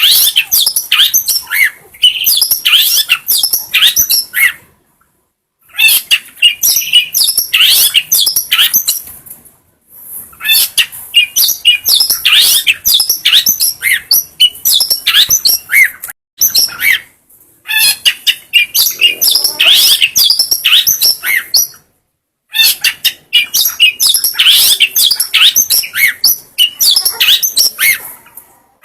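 Long-tailed shrike singing a fast, dense chattering song of high chirps and trills, in bursts several seconds long separated by brief silent breaks.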